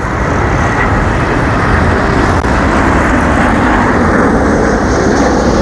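Airbus A350 jet engines, a loud steady roar as the airliner passes close by.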